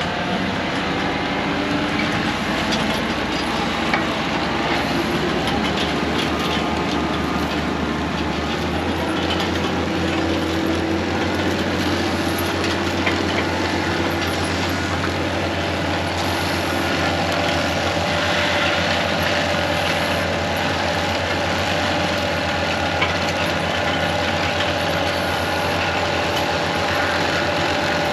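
Heavy diesel machinery running steadily under load, with its deep engine note shifting about six to nine seconds in and a couple of brief knocks.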